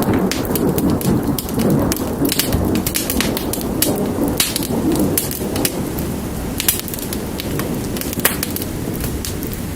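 Steady rain with a low rumble of thunder that eases off in the second half, over the sharp pops and crackles of a fire.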